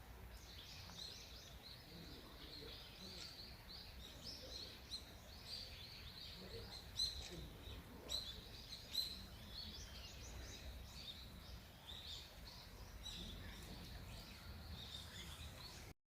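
Small birds chirping in a steady stream of short, high, overlapping calls over a faint low rumble, cutting off suddenly just before the end.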